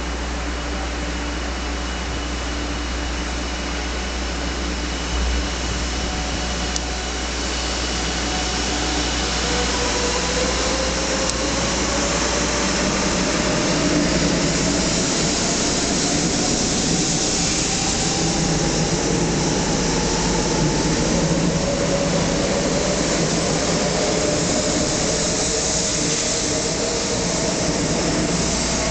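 500 series Shinkansen pulling out of the platform and gathering speed: its electric traction motors whine in several tones that climb slowly in pitch from about nine seconds in, over a steady rushing noise that grows louder as it passes.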